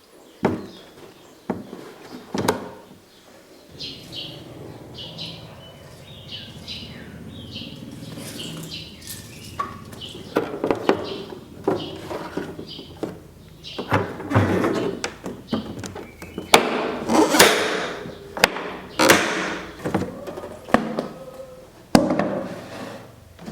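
Handling noises: irregular knocks, clicks and rubbing, as of a plastic camera dry box and its contents being moved about, growing busier in the second half. A low steady hum sits underneath from about four seconds in.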